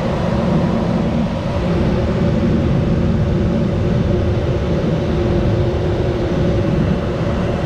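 Furnace running: a steady rumble of blower air and motor noise with a low hum, unchanging.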